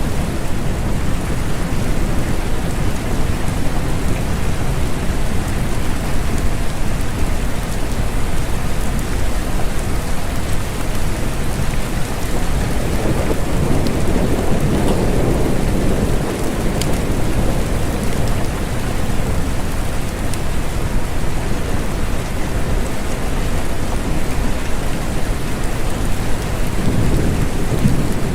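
Steady rain falling, with low rumbles swelling up about halfway through and again near the end.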